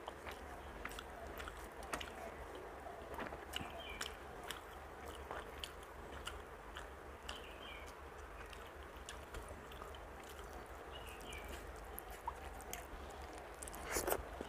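Eating rice and dal by hand: wet chewing and mouth clicks alongside fingers mixing rice and dal on a steel plate. A louder burst comes near the end as a mouthful is taken.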